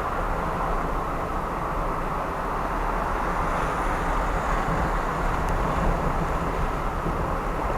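A car driving along at a steady pace: an even rush of tyre and road noise with the low hum of the engine underneath.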